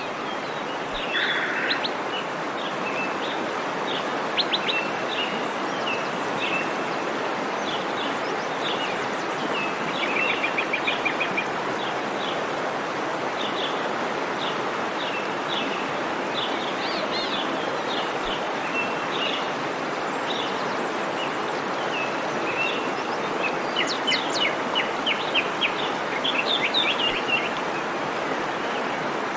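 Steady rush of a waterfall's falling water with many birds chirping over it, including quick runs of chirps about ten seconds in and again near the end.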